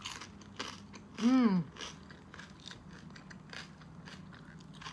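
Close-miked chewing of roasted pork with crackling skin: many small crunches and wet mouth clicks. About a second in, a short hummed "mm" of the voice.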